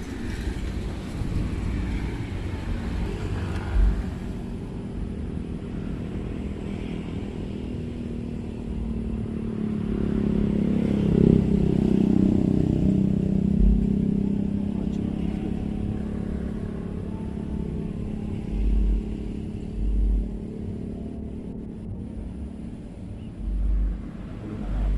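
Road traffic crossing a bridge overhead, heard from underneath: a steady low rumble that swells and rises and falls in pitch as a vehicle passes, about ten to thirteen seconds in. A few dull thumps come near the end.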